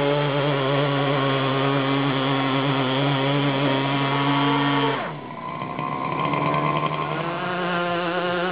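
Small engine of a 1/5-scale R/C pulling tractor running hard and steady under load; about five seconds in its pitch drops suddenly and the sound dips, then the engine picks back up and climbs in pitch.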